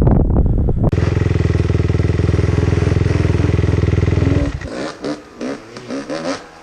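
Two-stroke dirt bike engine running at a steady pitch. It comes in abruptly about a second in, after wind noise, and cuts off suddenly about four and a half seconds in.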